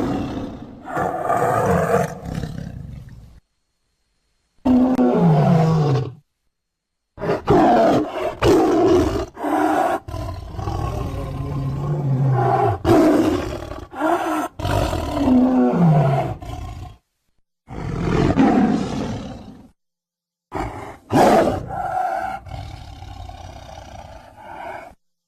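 A string of tiger roars and growls, edited together as separate clips that cut off abruptly into dead silence four times. Two of the calls end in a steeply falling moan.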